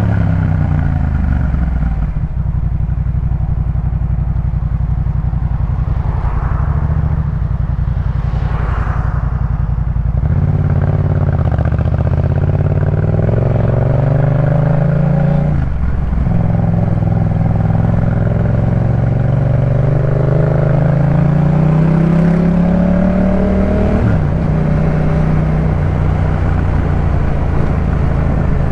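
2018 Yamaha MT-07's parallel-twin engine through a Jeskap K4 full exhaust, running under way. The pitch holds steady for stretches, climbs slowly between about sixteen and twenty-four seconds in, and breaks off sharply near two, ten, sixteen and twenty-four seconds in, as with throttle changes or gear changes.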